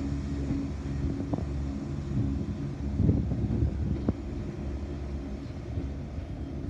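Class 170 Turbostar diesel multiple unit pulling away, its diesel engines giving a steady low drone, with wind buffeting the microphone and two short knocks, about a second and four seconds in.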